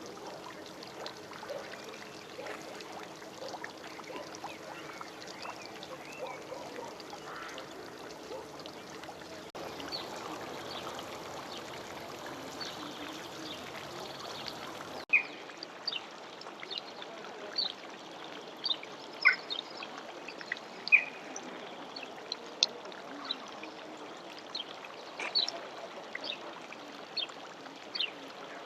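Steady noise of running or pouring water. About halfway through, short, sharp high chirps begin and recur irregularly.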